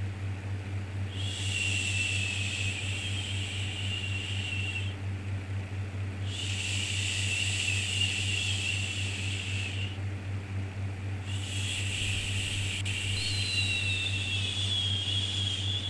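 A long soothing 'shhh' shushing sound for settling babies, repeated three times, each shush lasting about four seconds with a short pause between, over a steady low hum.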